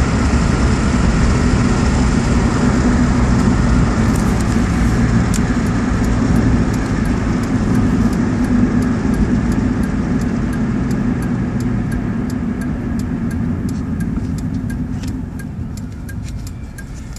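Honda D16Z6 1.6-litre four-cylinder engine and road noise heard inside the car as it slows down, the engine dropping toward idle and the noise fading over the last several seconds. A turn-signal relay ticks about twice a second from about five seconds in.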